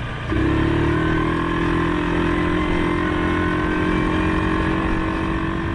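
Suzuki KingQuad 750 ATV's single-cylinder engine running steadily, stepping up a little in loudness a moment in and holding an even pitch.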